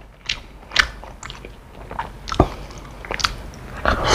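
A person eating close to the microphone: mouth sounds of chewing pempek, a chewy fish cake dipped in cuko sauce, with scattered short clicks and smacks. A louder noisy sound comes near the end as the spoon reaches the mouth.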